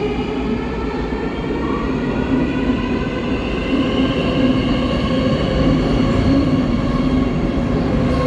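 Warsaw Metro train running, a steady loud rumble with several whining tones from its electric drive that drift slowly up in pitch.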